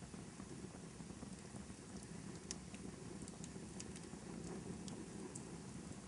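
Wood fire crackling in a fireplace: a low, steady rush of flames with scattered small sharp pops and crackles.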